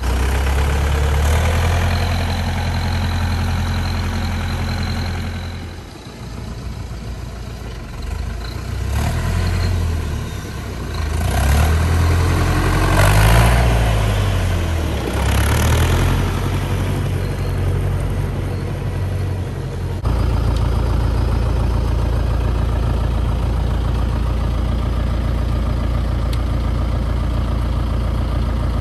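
Fendt 270V narrow-track tractor's diesel engine running, dropping lower about six seconds in, then revved up and down several times. It settles into a steady, even run for the last third.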